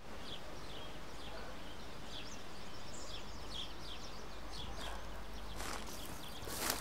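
Small birds chirping repeatedly in short falling notes, two or three a second, over a low steady hum of outdoor ambience. Two brief swishing noises come near the end.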